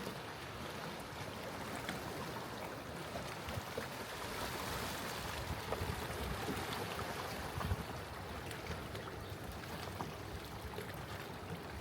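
Sea water washing against the rocky shore in an even rush, swelling about four seconds in and easing off again.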